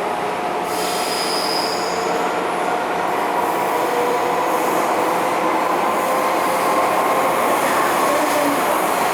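MTR M-Train electric multiple unit running, heard from on board: several steady whining tones over a loud rushing rumble, with a high hiss picking up about a second in.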